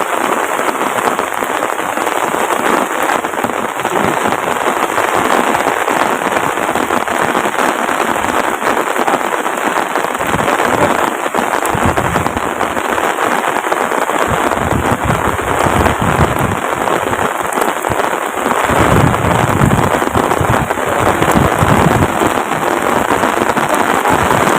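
Heavy rain pouring down steadily, with patches of low rumble in the second half.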